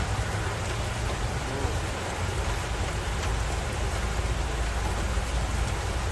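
Heavy rain falling on a flooded street while water surges up out of an overflowing manhole: a steady rushing noise with a deep rumble underneath.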